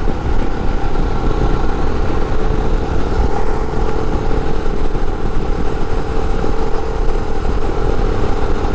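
Royal Enfield Himalayan 411cc single-cylinder engine running steadily while cruising at about 80 km/h, with a constant low rumble of engine and road noise.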